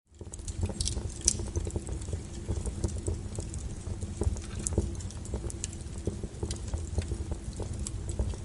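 Wood fire burning in a fireplace: a steady low rumble of flames with irregular crackles and sharp pops of burning logs, a louder pop about a second in and another near the end.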